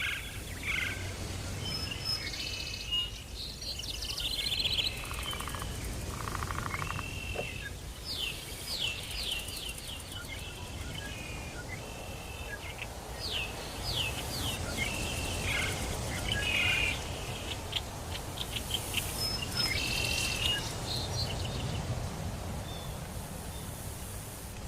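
Several birds chirping and calling in a forest chorus, with short whistled notes and quick trills overlapping throughout. A steady low rumble sits underneath.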